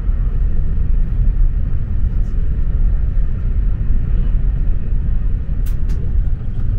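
Steady low rumble of a OUIGO high-speed train in motion, heard from inside the passenger cabin, with two short clicks close together near the end.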